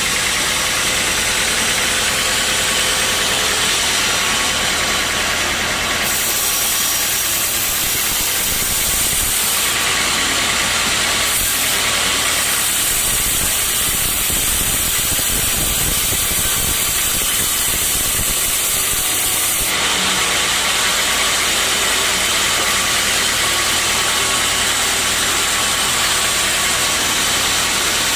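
Sawmill saw running steadily with a low machine hum. From about six seconds in until about twenty, a brighter, higher noise joins it, as the blade cuts through a teak log.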